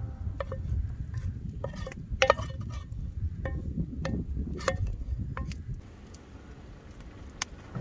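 A utensil clinking against dishes during cooking prep: about fifteen irregular sharp clinks with short ringing, most dense in the first five seconds and loudest about two seconds in, over a low rumble.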